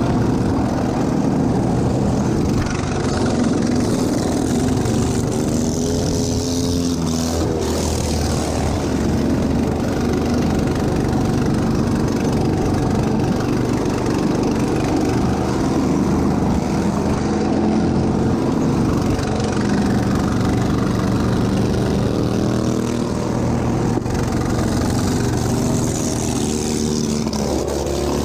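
Lawn tractor engine running hard without a break, its pitch rising and falling with the throttle.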